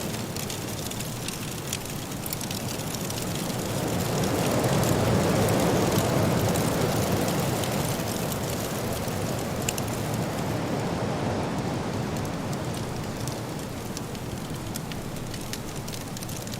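Wood fire crackling in a fireplace over the steady rush of a soft blizzard wind; the wind swells louder for a few seconds from about four seconds in, then eases back.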